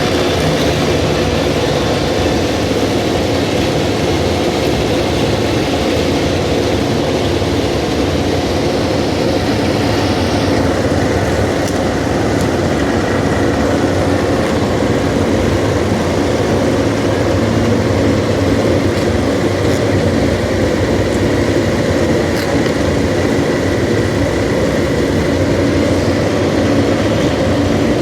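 MotoGP racing motorcycle engines running, a steady dense drone of several bikes at once. About ten seconds in, the higher hiss drops away.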